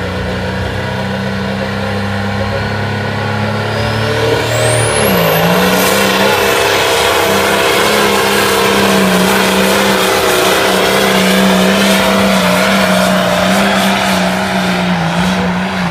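Competition pulling tractor's engine running flat out under load during a pull: a steady, loud drone with a high whine that climbs to a shrill top over the first few seconds. The engine note dips briefly about five seconds in, then holds steady again.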